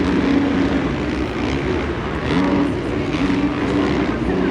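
Supercross dirt bike engines racing, their pitch rising and dropping again and again as the riders accelerate through the track.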